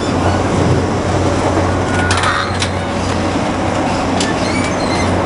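Steady running noise of a passenger train heard from inside the carriage: a constant low hum under an even rumble, with a few short clicks.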